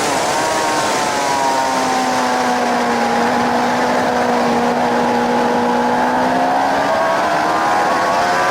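Suzuki GSX-R 750's inline-four engine heard from on the bike at track speed over heavy wind rush. The revs drop sharply at the start and keep falling for a couple of seconds, hold steady, then climb again near the end.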